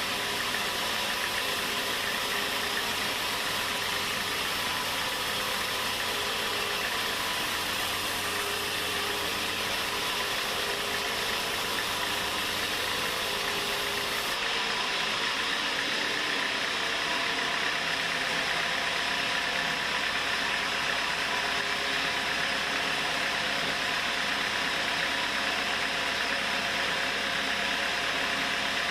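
Homemade sawmill machinery running steadily with a constant hiss. About halfway through, the highest part of the hiss drops away.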